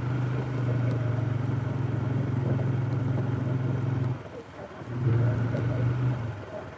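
Polaris ATV engine running under throttle on a trail ride. It eases off about four seconds in, picks up again briefly, then drops back near the end as the machine slows.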